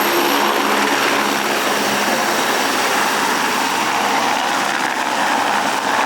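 Helicopter engine and rotor running with a steady, loud noise.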